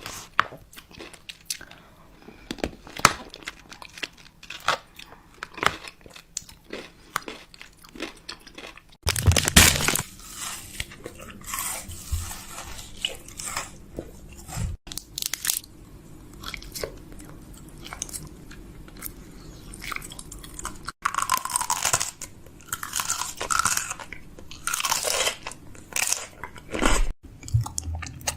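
Groceries being handled and set into a fridge: close-up clicks and knocks of containers with stretches of rustling packaging. The sound changes abruptly several times as short clips are cut together.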